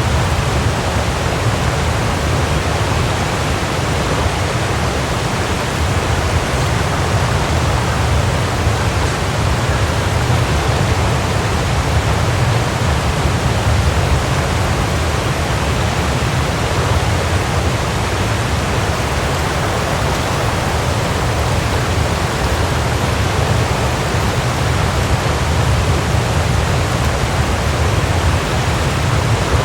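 Waterfall: a steady, even rush of falling water with a deep low rumble underneath.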